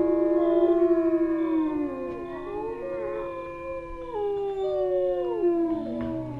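A wolf pack howling in chorus: several long, overlapping howls at different pitches, each held steady and then sliding down at its end.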